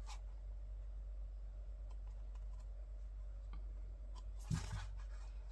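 Pages of a thick photobook being handled and turned: faint paper clicks and rustles, with one louder page-handling noise about four and a half seconds in, over a steady low hum.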